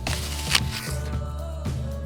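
A bite into a crisp apple: a noisy crunch lasting about a second, with a sharp crack about half a second in, over background music.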